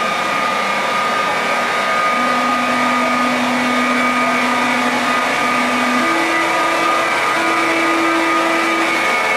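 Electric train at the station platform running loud and steady, its motor whine stepping up in pitch about two seconds in and again about six seconds in, as it gathers speed.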